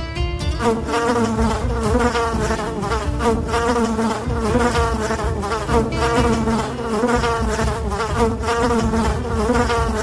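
Bees buzzing: a continuous wing hum whose pitch wavers up and down.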